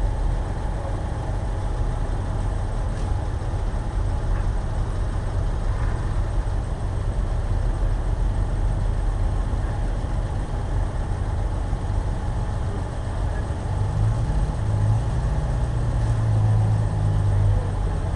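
A motor-vehicle engine idling with a steady low rumble. A deeper engine note grows stronger near the end.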